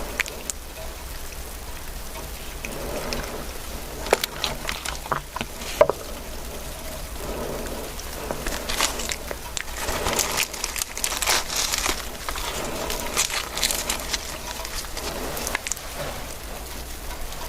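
Eating and food-handling noises: irregular crinkling and crackling with scattered sharp clicks. The two loudest clicks come about four and six seconds in, and the crackling is densest in the middle.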